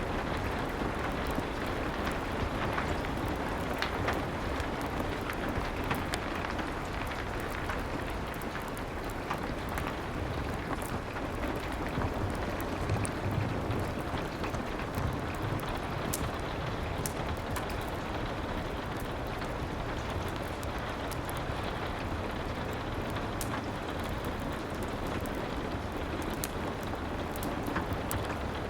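Steady rain, a dense even hiss with scattered small sharp ticks.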